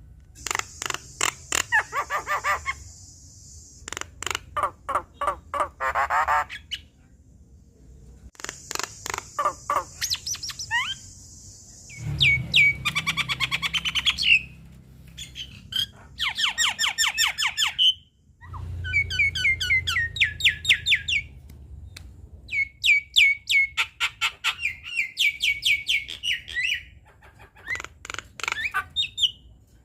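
Javan myna (jalak kebo) singing a vigorous, varied song: bursts of rapidly repeated chattering notes separated by short pauses. Some runs are high and buzzy; others are strings of sharp upslurred whistles.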